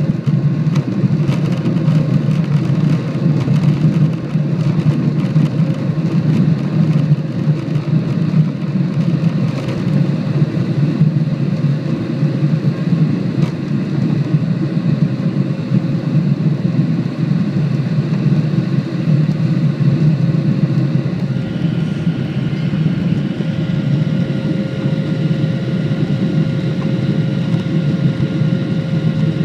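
Steady rumble of an airliner's jet engines heard from inside the cabin during takeoff, with a few faint whining tones over it and a shift in the engine tone about two-thirds of the way through.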